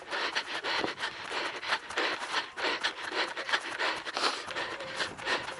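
A runner's footsteps scuffing and scraping down a steep dirt trail: rapid, uneven steps with heavy breathing.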